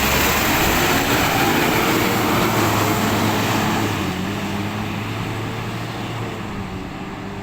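Diesel engine of a waste collection truck pulling away, its sound fading steadily as it moves off.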